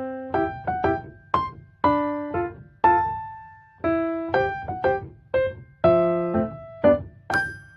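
Background piano music: single notes and chords struck about twice a second and left to ring and fade.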